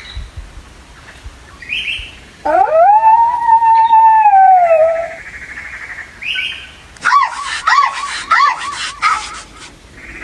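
A dog howling: one long call that rises, holds and falls off over about two and a half seconds, followed a couple of seconds later by a quick run of short, high yelps.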